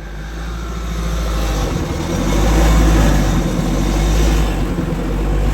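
Car engine running under load, growing louder over the first couple of seconds and then holding loud with a low rumble.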